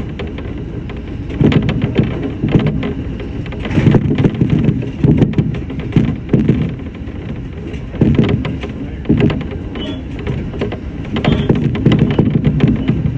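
Shinano Railway SR1 series electric train running, heard from inside the front car: a steady low rumble that swells and eases, with irregular clattering of the wheels over the track.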